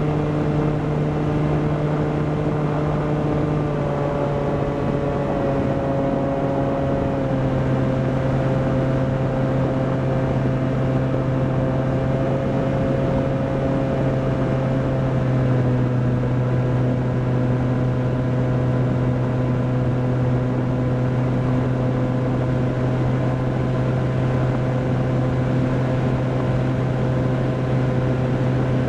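Volantex Ranger EX RC plane's electric motor and pusher propeller running steadily in flight, a droning hum heard from the onboard camera. Its pitch drops a little in steps about four and seven seconds in and again about halfway through.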